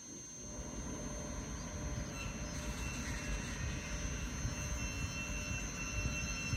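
A train approaching along the main line: a low rumble growing steadily louder, with a high, steady whine from the rails and train joining about two seconds in.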